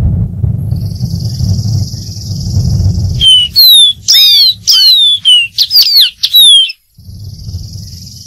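Dark-throated seedeater singing a short phrase of clear, falling whistled notes, about eight in quick succession, starting about three seconds in. Before and after the song there is a steady high hiss and a low rumble.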